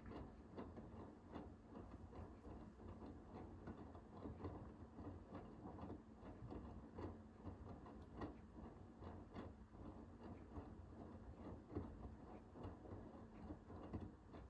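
Hoover H-WASH 500 front-loading washing machine turning its drum during a cotton 60 cycle: a low motor hum under many light irregular clicks and knocks as the laundry and water tumble. It stops abruptly at the very end.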